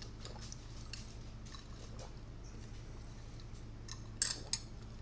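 A person chewing food close to the microphone, with small wet mouth clicks and a short run of sharper clicks about four seconds in.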